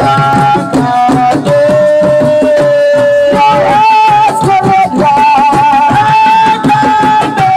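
Assiko band music: a melody of long held notes over fast, dense hand-drum percussion.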